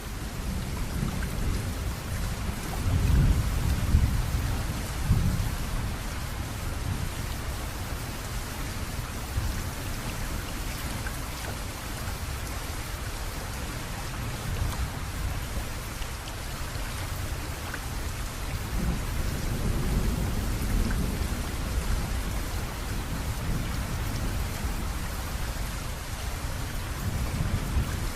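Steady rain pouring down during a thunderstorm, with low rolls of thunder swelling about three seconds in and again near twenty seconds in.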